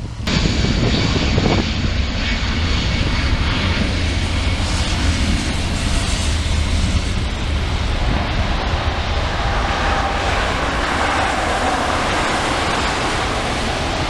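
Jet engines of a wide-body airliner: a loud, steady rush over a deep rumble, with a thin high whine that fades over the first half. It cuts in suddenly just after the start.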